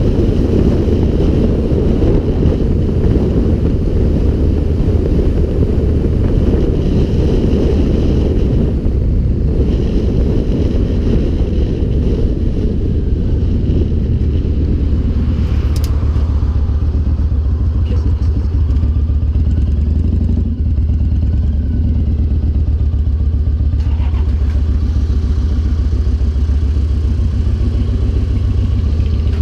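Motorcycle engine running steadily under way, with wind rushing over the microphone; the wind rush eases about halfway through while the engine hum carries on.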